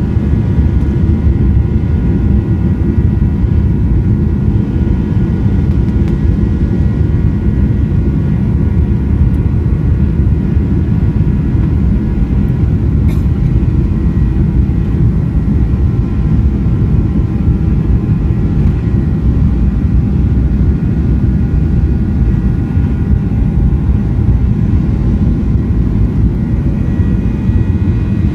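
Airliner jet engines running at steady power during a takeoff: a loud, steady deep rumble with several high, steady whining tones above it, and another higher tone joining near the end.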